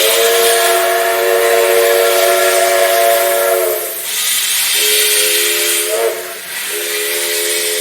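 Steam locomotive chime whistle sounding a chord of several notes over a steady hiss of steam. A long blast cuts off nearly four seconds in, a shorter blast follows about a second later, and a third starts near the end.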